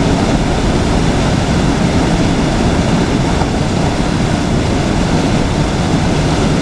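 Steady, loud rush of river water flowing past, an even noise with no breaks.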